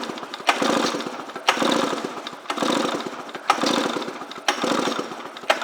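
Recoil starter rope pulled about once a second, spinning over a 1998 Polaris XC 700 twin two-stroke engine for a compression test on the clutch-side cylinder. Each pull starts sharply and fades; the gauge comes up to 140 psi.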